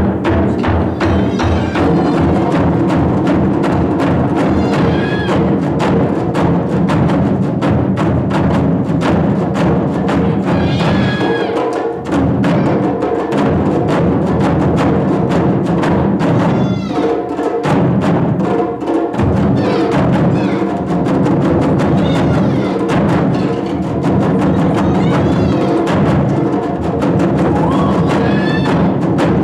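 Taiko drums played in a fast, dense rhythm over sustained low notes, with a high wavering melody coming in several times; the low drumming drops out briefly about twelve seconds in and again a little later.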